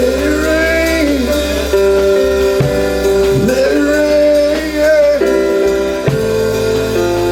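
Gospel church music: sustained keyboard chords with a melody line that slides up and down in pitch in two long phrases, from a voice or a guitar.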